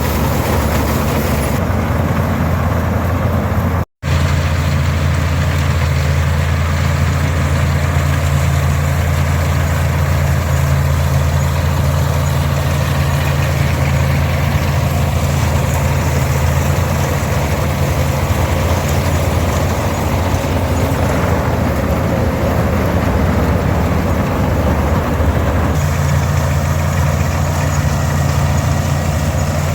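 Farmall 460 diesel tractor's 282 engine running steadily under load, together with the whirr of the International 82 pull-type combine it drives. The sound cuts out for an instant about four seconds in.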